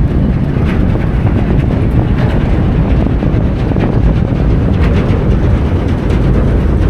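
Wind buffeting the microphone on the open deck of a moving car ferry: a loud, steady low rumble that rises and falls unevenly.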